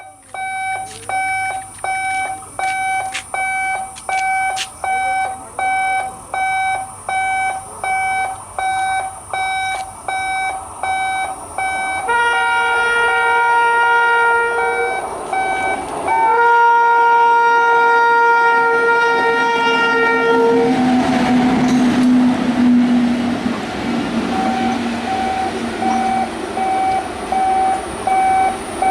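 A repeating electronic warning beep, about one and a half beeps a second. About twelve seconds in, an electric locomotive's multi-tone horn blows two long blasts, each about four seconds. A noisy rush with a low tone follows as the train runs by, then the beeping carries on.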